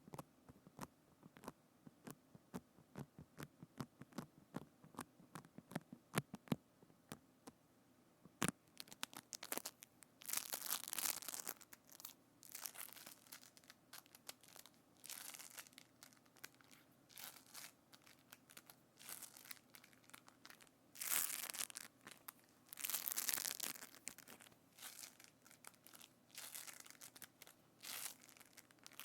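Close-miked ASMR handling sounds on a binaural microphone: a quick run of light sharp clicks, several a second, then from about eight seconds in, irregular crackly, crinkling rustles and squishes in short bursts.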